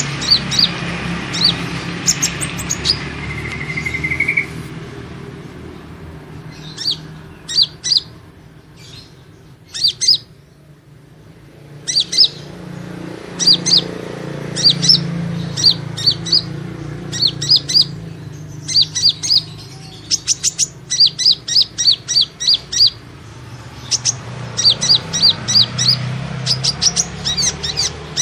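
Kolibri ninja sunbird lure call: runs of short, high, sharp chirps repeated in quick succession, with a quieter gap about a third of the way in. A steady low hum lies underneath.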